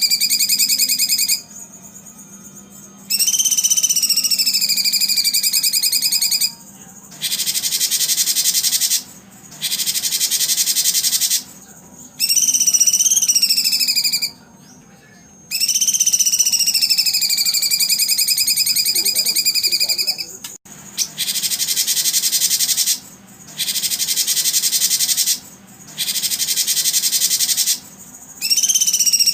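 A songbird singing in long phrases, each a few seconds long with brief pauses between them. It alternates fast trilled whistles that glide down and back up in pitch with harsh, buzzy rattling phrases.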